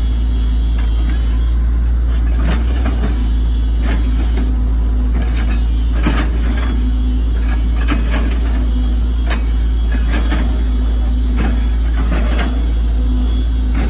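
Hitachi ZX110 MF excavator's diesel engine running steadily under working load, a low hum with a tone that swells and fades, and sharp knocks and cracks every second or so.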